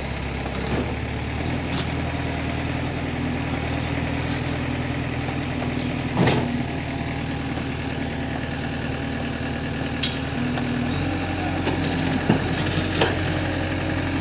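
Heavy diesel engine of earth-moving machinery running steadily, its speed shifting about a second and a half in and again near the end. A few short sharp knocks sound in between.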